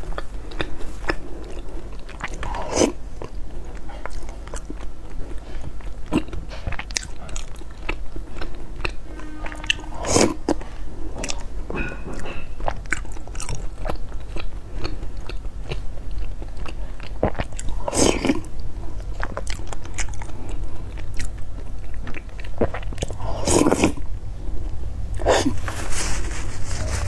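Close-miked chewing of black sesame glutinous rice balls (tangyuan) coated in chocolate sauce: sticky, wet mouth sounds and small clicks, with several louder wet mouth sounds spread through.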